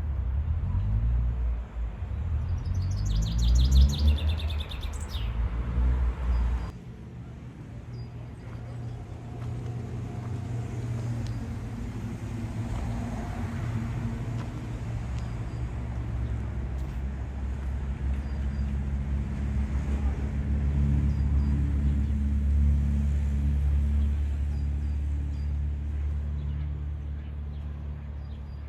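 Motor vehicles running close by on a city street. In the first few seconds one accelerates with a rising whine. After an abrupt change about seven seconds in, a steady low engine rumble swells and then fades.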